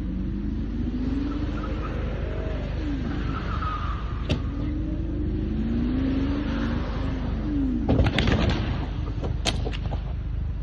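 Car on the road, its engine pitch repeatedly rising and falling over a steady low rumble. There is a single sharp knock about four seconds in, then a cluster of sharp bangs about eight seconds in and again near the end.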